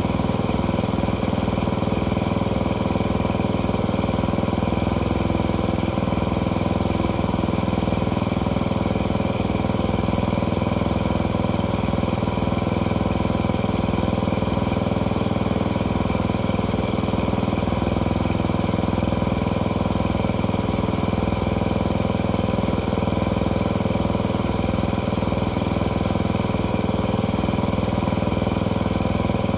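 Engine running steadily at a constant speed, with no change in pitch or load.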